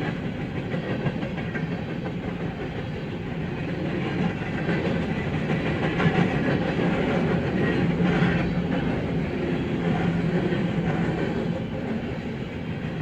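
Freight train cars rolling past, with a steady rumble of steel wheels on the rails and a rhythmic clickety-clack over the rail joints.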